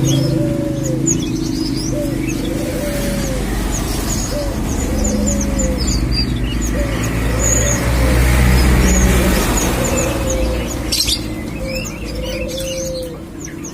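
Albino Barbary dove cooing over and over to court a female: low, arching coos, a short note followed by a longer one, repeating about every two seconds. Small birds chirp throughout.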